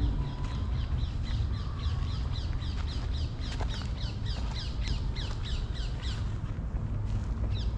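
A bird calling in a rapid series of short, high, falling notes, about three or four a second. The series stops about six seconds in, and two more notes come near the end, over a steady low rumble.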